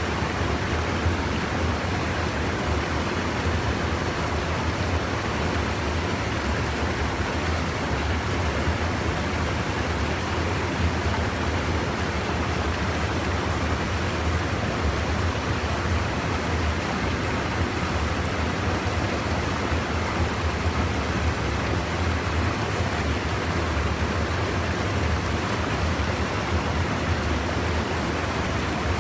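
Steady rushing of stream water pouring over a small erosion-control dam, an even, unbroken hiss.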